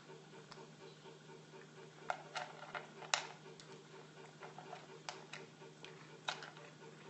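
Old cat with only a few teeth chomping its food: faint, irregular clicks and smacks of eating, a handful of them bunched in the middle and a couple more later, over a steady low hum.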